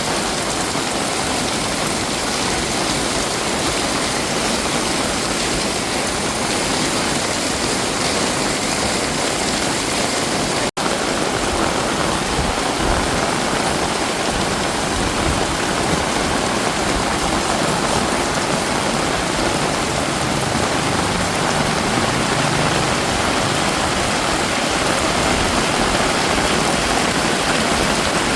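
Heavy rain pouring steadily, an even loud hiss, with a split-second dropout about eleven seconds in.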